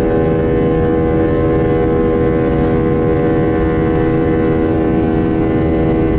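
Jet aircraft engines running with a steady whine over a low rumble.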